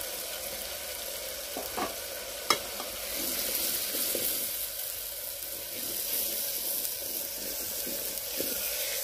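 Onion, ginger-garlic paste and red chilli powder sizzling in hot oil in a steel pot while a steel ladle stirs them. The sizzle gets louder a few seconds in, and there is a sharp clink of the ladle on the pot about two and a half seconds in.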